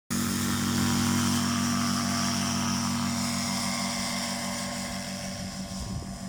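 Paramotor engine and propeller running at steady speed, with a broad rushing hiss, gradually getting quieter.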